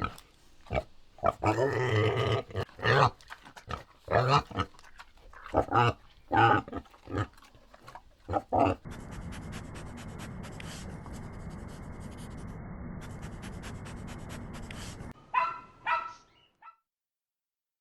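An animal calling in a string of short repeated calls, then a steady hiss for about six seconds, then a few more short calls.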